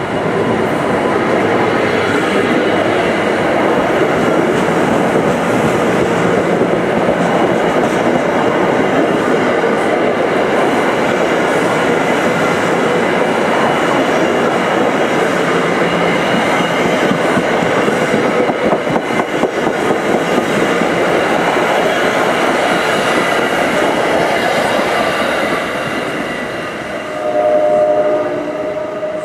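Train passing close by, a loud steady rumble of wheels on rail with clacking over the joints, easing near the end. A train horn sounds briefly near the end.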